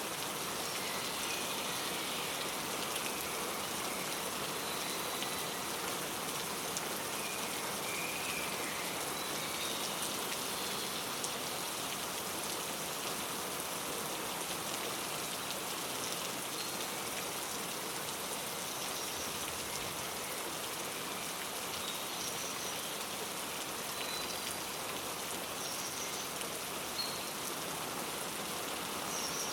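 Steady rain falling, with faint short bird chirps now and then.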